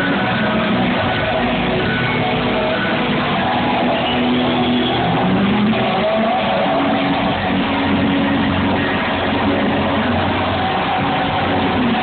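Loud live rock band: electric guitars playing bending lead lines over drums and a dense, steady wall of band sound, recorded through a phone's microphone, so it sounds harsh and dull at the top.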